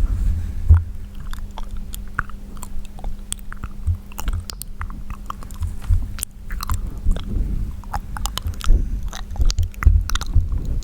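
Wet mouth sounds made close to a sensitive microphone: a run of irregular lip smacks, tongue clicks and pops, with low thumps from breath and handling on the microphone.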